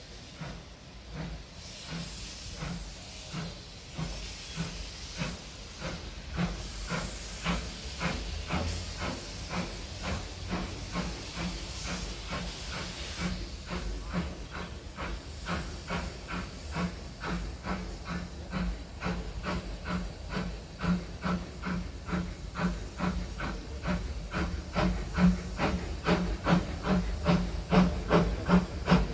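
Steam locomotive working, its exhaust beats coming in a quick, steady rhythm and growing louder. There is hissing steam in the first half.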